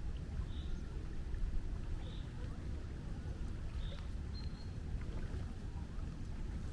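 Sea surf as a steady low rumble, with a small bird's short high chirp repeating every one and a half to two seconds.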